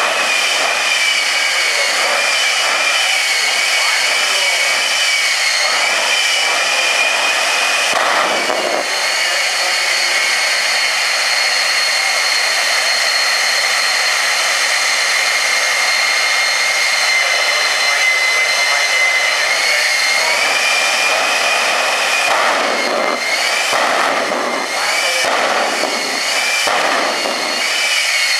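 Turbine jet engine of a jet-powered semi truck running with a steady, high whine, its pitch shifting slightly now and then.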